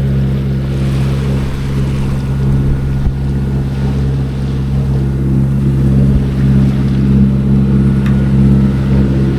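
A sailing yacht's engine running steadily while the boat motors along, a low, even drone, with some wind and water noise.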